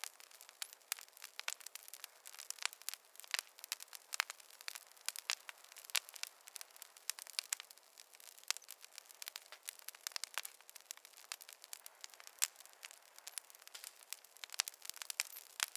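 Wood fire crackling and popping, with irregular sharp snaps over a soft hiss.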